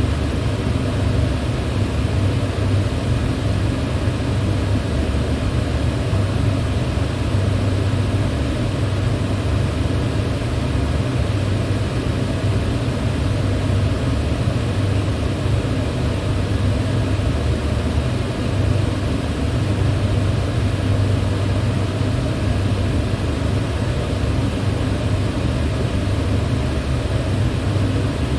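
Electric fan running steadily: a constant low hum under an even rush of moving air.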